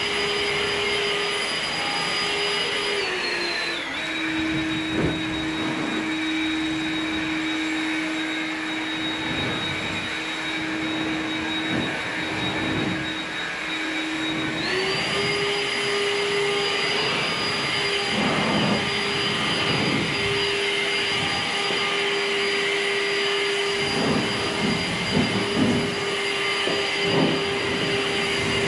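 Blower running steadily with a whining pitch. Its speed drops a few seconds in and comes back up about halfway through. Scattered knocks and rattles sound in the second half, as debris is blown around.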